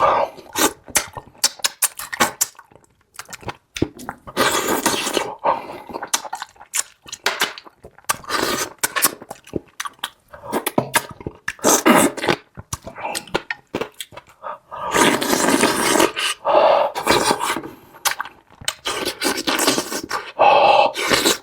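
A person eating close to the microphone: chewing spicy food with many quick wet clicks and smacks, and a few louder stretches about a second long.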